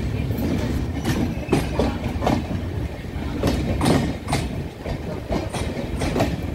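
A moving train heard from on board: a steady low rumble with irregular sharp clacks as the wheels pass over rail joints.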